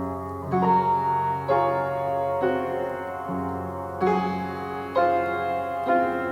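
Piano music: a new chord struck about once a second, ringing over held bass notes.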